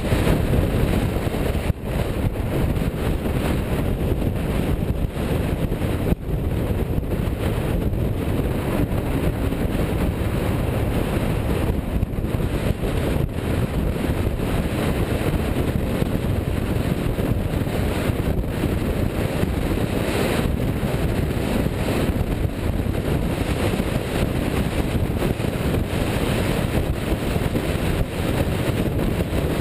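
Steady noise of a car on the move, with wind rumbling on the microphone.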